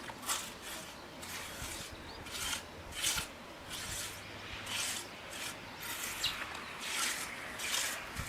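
Repeated rasping scraping strokes, somewhat irregular, roughly two a second.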